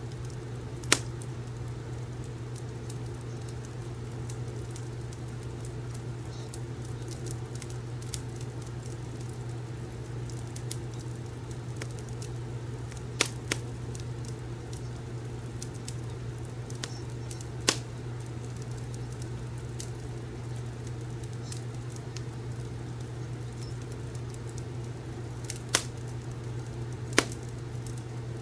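Wood fire crackling: many small crackles and about six sharp pops, two close together just after the middle, over a steady low hum.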